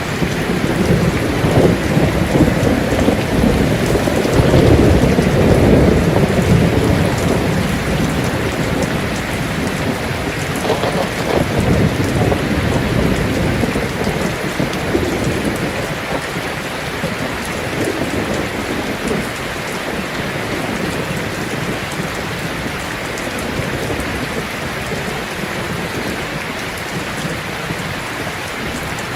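Heavy rain falling on a tin roof, a steady dense patter, with thunder rumbling underneath. The rumble swells loudest a second or so in, fades, and comes up again about ten seconds in.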